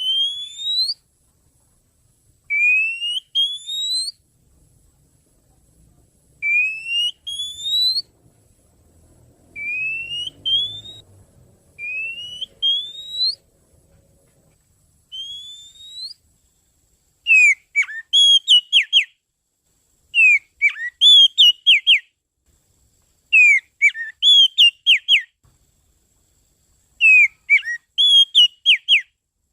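Oriental magpie-robin (kacer) calling: clear rising whistled notes, often in pairs, every couple of seconds. About halfway through it switches to four loud bursts of quick, sharp chattering notes.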